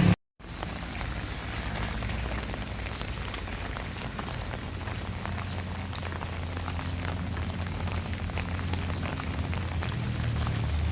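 Heavy rain falling steadily on surfaces, with many separate drops ticking over a low steady rumble, starting after a brief drop to silence.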